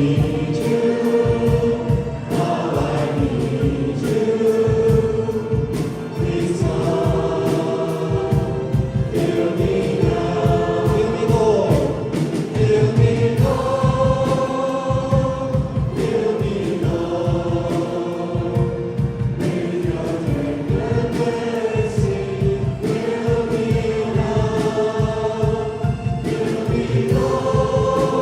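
A worship team and congregation singing a worship song together over band accompaniment, with held melodic lines over a steady beat.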